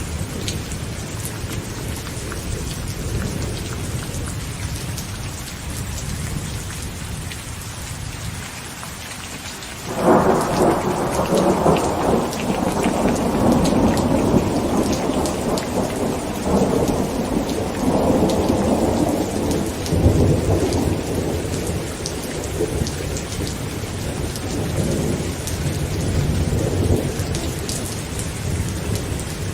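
Heavy rain falling on a tent, with thunder rumbling low at first; about a third of the way in a loud thunderclap breaks suddenly and rolls on in several swells for most of the rest.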